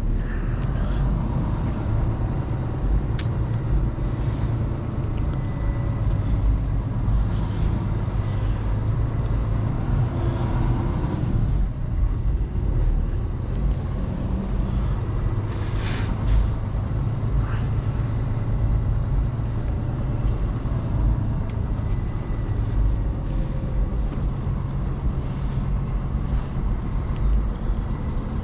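Mercedes Actros L truck driving, loaded with stones: a steady heavy engine and road rumble, with a few short hisses along the way.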